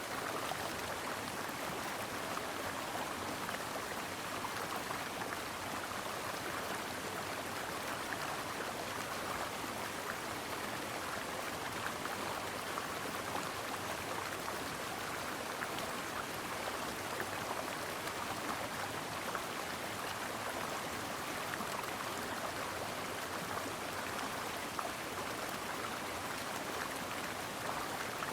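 A stream flowing, a steady, even rush of running water.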